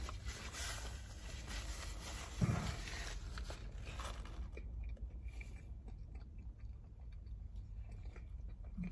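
A man biting into and chewing a soft flour tortilla wrap soaked with the juices of the burrito bowl, louder for the first four seconds or so and then quieter.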